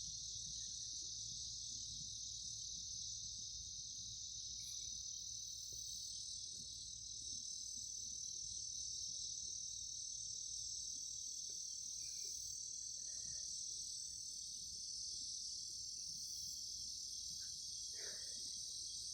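Steady insect chorus, a continuous high-pitched trill of crickets that holds without a break.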